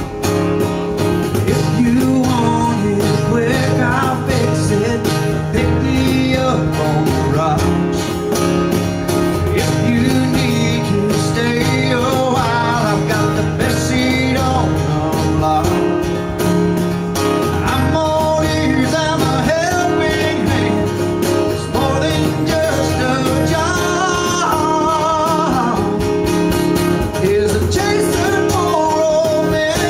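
Live country song: a singer with a wavering, vibrato-laden voice over strummed acoustic guitar, with a cajon keeping the beat.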